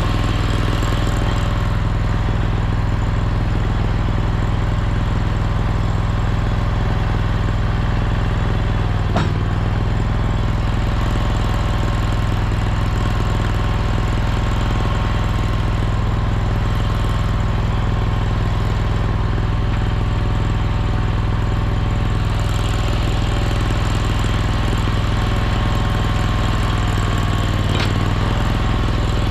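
Mini skid steer's small engine running steadily. Its pitch dips briefly twice, about nine seconds in and again near the end, each time with a short knock.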